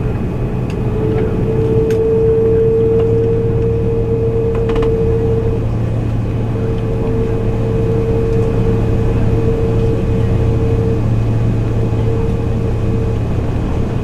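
Airbus A330's engines running steadily on the ground before takeoff, heard inside the passenger cabin as a constant hum with a low drone and a steady mid-pitched whine.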